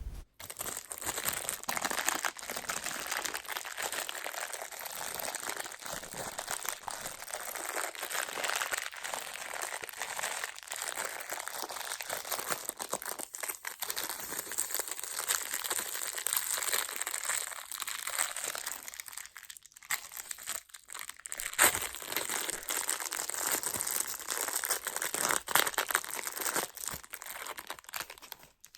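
Close-miked crinkling and crackling of a plastic wrapper being handled and peeled off a marshmallow pop, continuous and busy, with a few louder crackles around the middle and later on.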